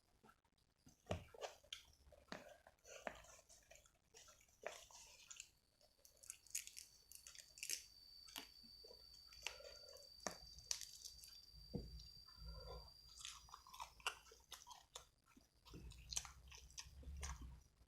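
A person eating rice with sambal and raw vegetables close to the microphone: quiet chewing and biting with soft crunches and wet mouth clicks. A faint high steady whine runs through the middle stretch.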